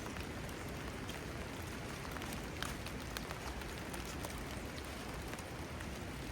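Steady rain falling, with scattered close drops ticking sharply on hard surfaces, one a little louder about two and a half seconds in.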